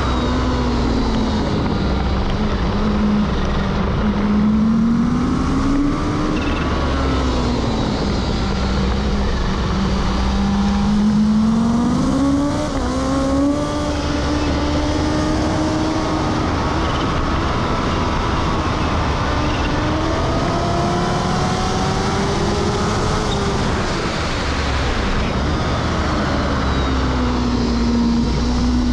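Kawasaki Ninja H2's supercharged inline-four engine running hard on a track lap. Its pitch rises and falls in long, slow sweeps as the bike accelerates and slows for corners, over a steady low rumble of wind on the camera mounted by the bodywork.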